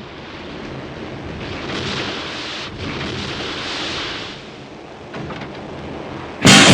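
A low, rumbling wash of noise that swells and fades like distant thunder, then near the end a live metal band crashes in all at once at full volume with distorted guitars and drums.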